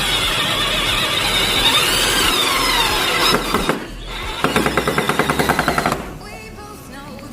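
Cordless drill running hard with a squeal that slides in pitch for about three and a half seconds, then after a brief pause a rapid even clatter of about nine strokes a second for a second and a half.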